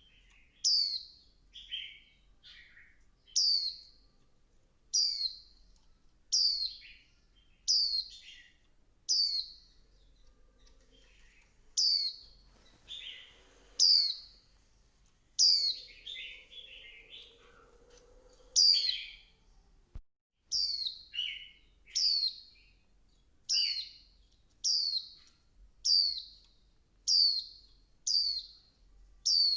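Female white-eye calling: short, high chirps that fall in pitch, repeated about every second to second and a half, with some lower twittering between them.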